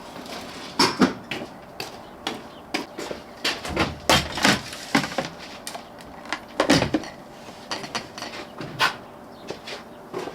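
Tableware clinking and knocking irregularly as a meal is eaten: a dozen or so sharp clicks and knocks, the loudest about a second in, around four seconds in and near seven seconds in.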